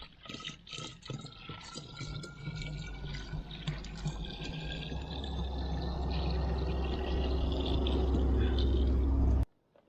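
Water pouring steadily into a water bucket, getting louder, with a rising tone as the bucket fills. It cuts off suddenly near the end.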